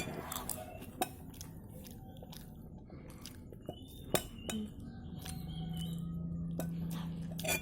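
Eating with a spoon: chewing, with scattered sharp clinks of cutlery on a plate, and a steady low hum over the last couple of seconds.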